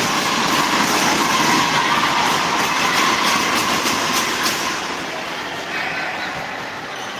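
Steady din of a crowd in an indoor sports hall during a volleyball match, with faint knocks through it. It eases somewhat after about five seconds.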